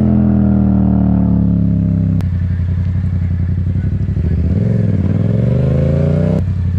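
Yamaha MT-07 motorcycle's parallel-twin engine running under way. Its revs fall over the first two seconds and a sharp click comes about two seconds in. The revs climb again through the second half, with another click near the end.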